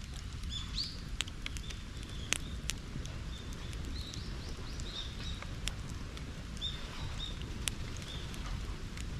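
Bonfire burning with a steady low rumble and scattered sharp pops and crackles. Small birds chirp repeatedly in short notes over it.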